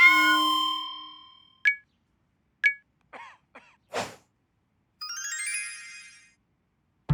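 Cartoon sound effects: a bright ringing chime that fades away, two short pings, a few small squeaks and a quick swish, then a rising run of twinkling notes like a magic sparkle.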